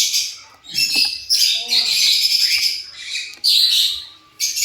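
Lovebird chattering in harsh, high-pitched bursts, several in a row with short breaks, the longest lasting about two seconds.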